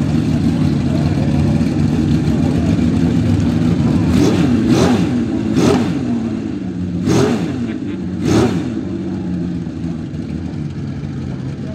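Homemade V12 engine idling steadily, blipped four times in quick succession, each rev rising and falling back to idle.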